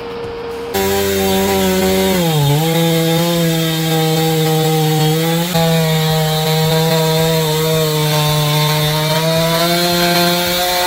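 Chainsaw running at high revs while felling a large oak, a steady high engine note. The pitch sags briefly about two seconds in and then holds steady.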